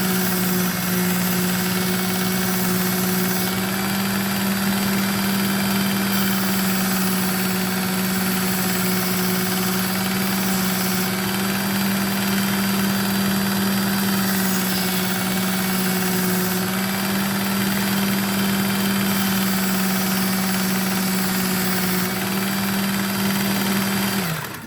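Ken Onion belt knife sharpener running with its medium belt: a steady motor hum with belt hiss, switched off just before the end.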